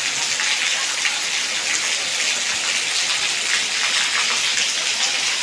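Heavy rain falling steadily on tin roof sheets, with water streaming off them: a dense, even hiss full of tiny drop ticks.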